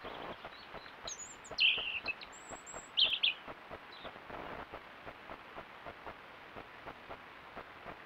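Small birds chirping: a few short high chirps in two clusters, about a second and three seconds in, with thin high whistles between them. Faint irregular ticking runs underneath.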